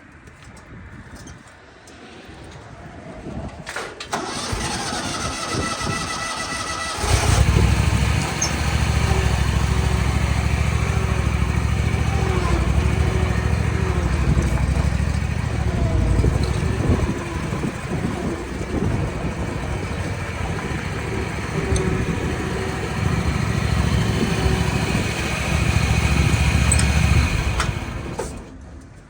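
An engine starts and runs steadily for about twenty seconds, then cuts off near the end.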